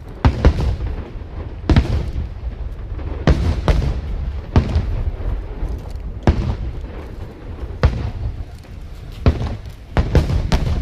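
Aerial firework shells bursting in a display: about ten sharp booms at uneven intervals, some in quick pairs, over a steady low rumble.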